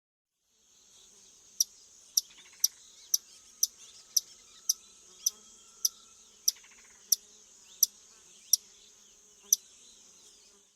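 A steady, high insect drone with a series of about thirteen sharp, high chirps at roughly two a second.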